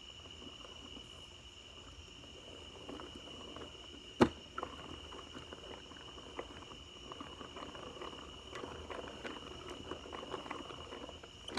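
Quiet, slow stirring of liquid slime mixture in a container: soft irregular small clicks and squelches, with one sharp tap about four seconds in. A steady high-pitched tone, like an insect's chirr, runs underneath.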